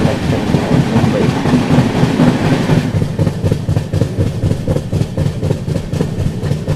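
Indian Railways express train running on the track: a steady rumble. About three seconds in the higher hiss drops away and rapid clicking and rattling comes through.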